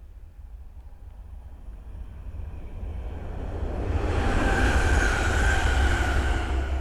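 East Midlands Railway class 360 electric multiple unit approaching and passing at speed: the sound of the train builds over the first few seconds and is loudest about four to six seconds in, with a steady whine over the rush of the wheels.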